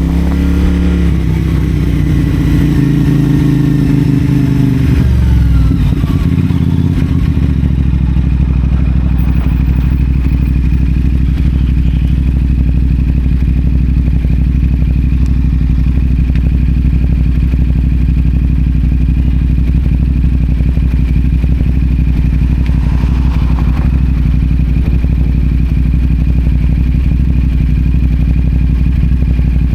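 CFMoto 450SR's 450 cc parallel-twin engine through a Yoshimura AT2 slip-on exhaust, dropping in revs over the first six seconds or so as the bike slows. It then settles into a steady, even idle.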